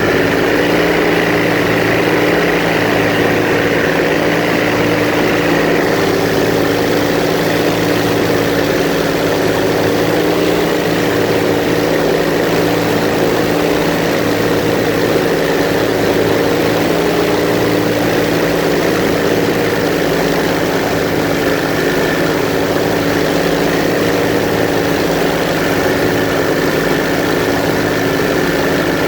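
Airboat engine and propeller running loud and steady at a constant speed.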